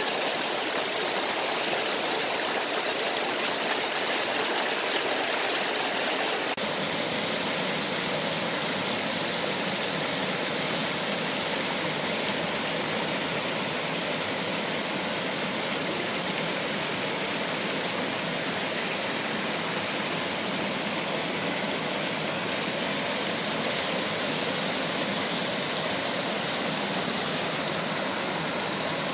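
Waterfall and stream water rushing steadily, an even hiss-like flow with no breaks; its character shifts slightly about six seconds in.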